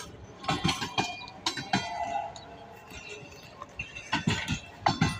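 Railway coaches rolling slowly past on jointed track, their wheels and couplings giving irregular metallic clanks and knocks, with a few brief thin squeals.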